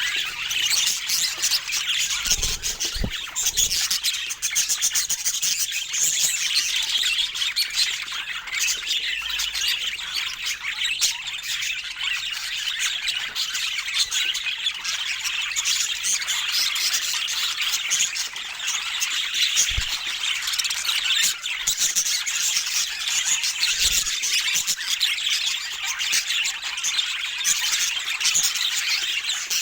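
Budgerigars chattering without pause, a dense stream of warbles, chirps and squawks, with a few faint soft knocks.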